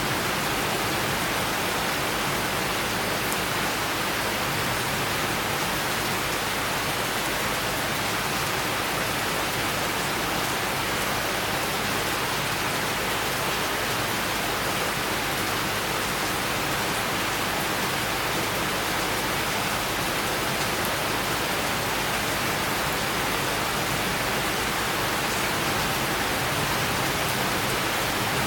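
Steady summer-storm rain falling, an even, unbroken hiss.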